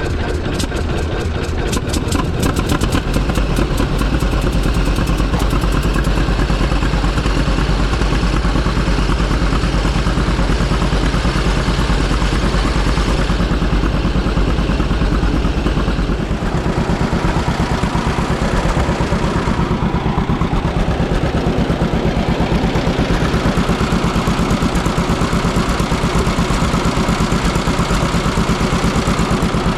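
Large diesel farm engine running steadily after a start. About sixteen seconds in, the deep low rumble drops away and the note changes.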